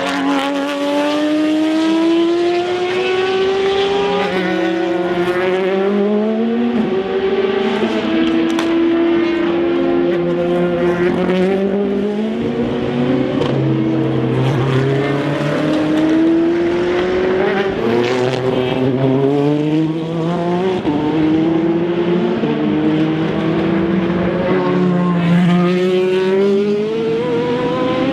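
Racing car engines at high revs, the pitch climbing through each gear and dropping sharply at every upshift, with more than one car heard at once.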